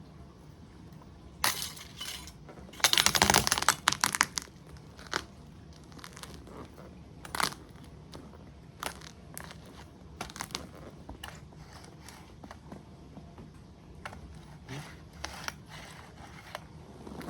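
A model truck being crushed under a motocross boot: a sharp crack about 1.5 s in, then a dense burst of cracking and crunching, then scattered smaller cracks and clicks as the pieces give way.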